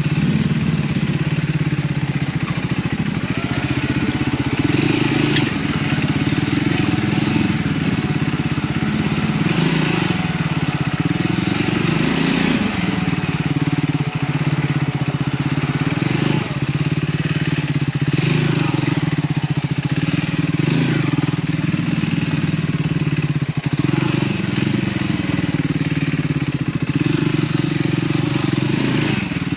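Triumph Scrambler 400X's single-cylinder engine through its stock exhaust, the revs rising and falling over and over as the throttle is worked riding off-road.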